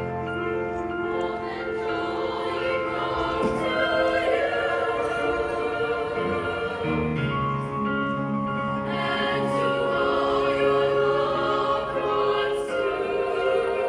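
School choir singing a Christmas piece in held, multi-part chords that change every second or two.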